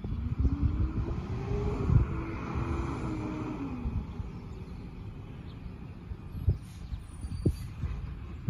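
McNeilus side-loader recycling truck's engine revving up, its pitch rising over a couple of seconds, holding, then dropping back to idle about four seconds in, as it drives the hydraulics. A steady low rumble with a few sharp knocks runs underneath.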